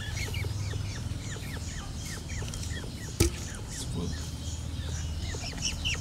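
Small birds peeping: a steady run of short, falling chirps, two or three a second, over a low steady hum, with a single sharp knock about halfway through.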